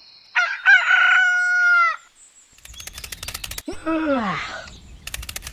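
A rooster crowing once, a drawn-out call on a steady pitch, followed by a quick run of clicks and a short sound falling in pitch.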